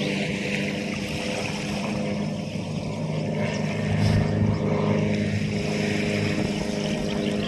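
Motorboat engine running steadily, with a haze of wind and water noise.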